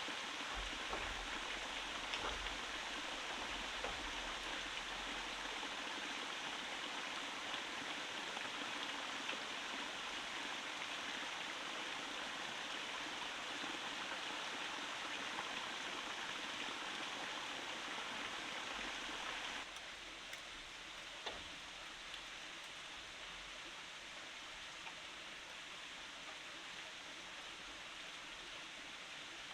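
Steady rush of a forest stream, with a few faint knocks along the way. The water becomes somewhat quieter about twenty seconds in.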